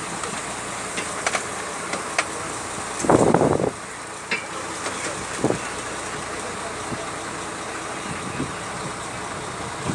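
Fishing boat's engine running steadily, with a few sharp clicks and a brief louder burst about three seconds in.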